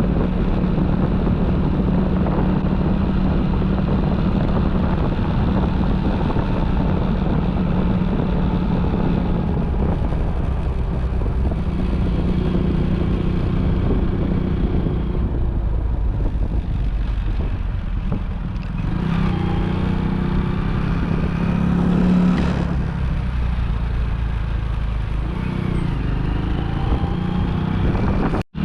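Motorcycle engine running steadily while riding, with some road and wind noise. Its pitch shifts up and down about two-thirds of the way through. The sound cuts out for an instant near the end.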